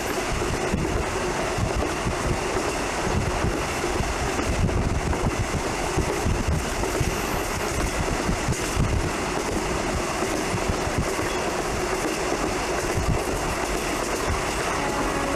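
Train running along the track, a steady rumble and rattle.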